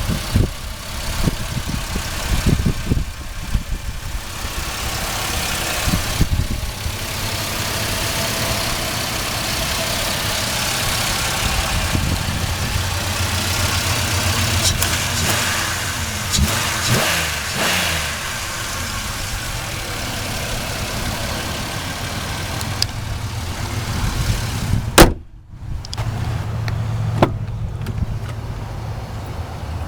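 GM 3400 V6 in a Buick Rendezvous idling steadily, heard with the hood open. About 25 seconds in comes one loud, sharp thump, with a smaller click a couple of seconds later.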